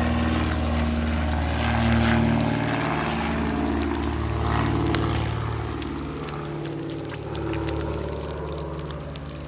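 Bacon sizzling over a crackling fire, a dense hiss dotted with sharp pops and crackles. A low, shifting hum sits underneath, and everything grows quieter through the second half.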